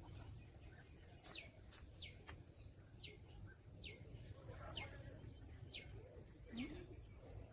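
Wild birds calling, faint: repeated short high chirps mixed with quick falling whistles, about one a second, over a low background hiss.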